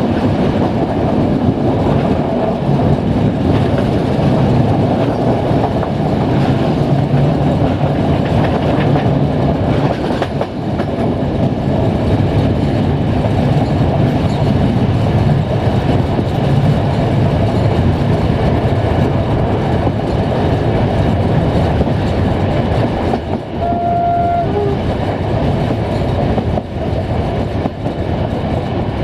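Passenger train coaches running at speed on the rails, a steady rumble and wind rush heard from an open coach window. About 24 s in, a short horn sounds: a higher note, then a lower one.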